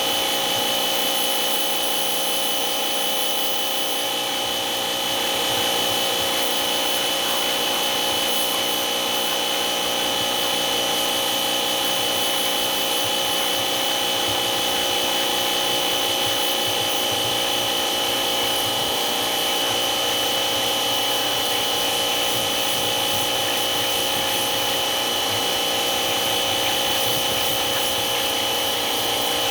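Electric motor of a power tool running steadily at constant speed, with a steady high whine over a noisy hum.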